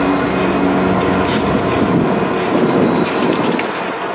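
Freight train passing close by: the diesel engine of a mid-train BNSF distributed-power locomotive hums as it goes by, fading about halfway through, over the steady rumble and clatter of wheels on rail.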